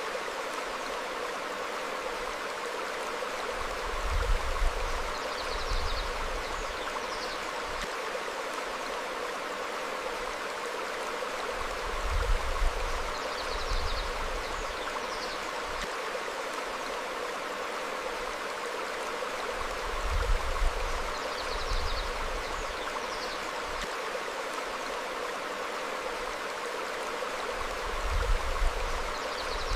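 Small stream flowing steadily over rocks, with faint bird chirps every few seconds. A low rumble swells briefly about every eight seconds.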